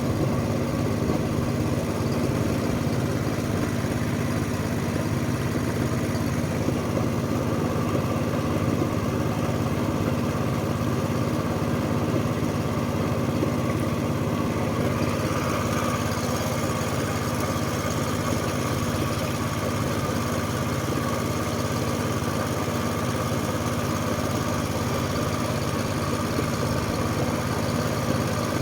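Small tour boat's engine running steadily under way.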